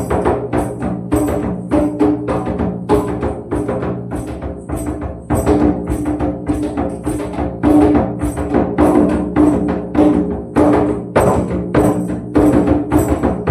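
Hand percussion beating a quick, steady rhythm with jingles on each stroke, over the steady hum of ringing tones such as singing bowls.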